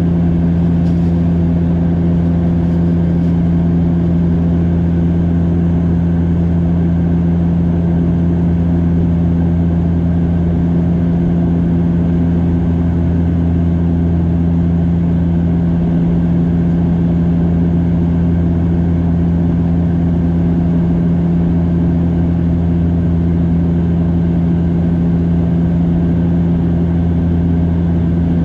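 Cabin drone of a Bombardier DHC8-Q400 turboprop airliner: loud, steady propeller and engine hum with a strong low tone and a second tone above it, over a constant rush of air noise.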